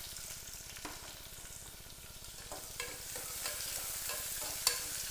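Chopped onions frying in hot oil with tempered mustard seeds and curry leaves, a steady sizzle, while a ladle stirs them, scraping and knocking against the pot from about halfway in, with one sharper knock near the end.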